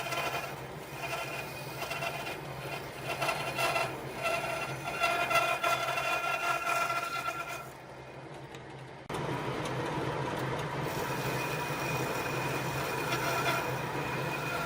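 An electric power tool running with a steady motor whine while it works wood, with a rough rubbing, sawing sound. About nine seconds in the sound breaks off and a different, steadier machine noise takes over.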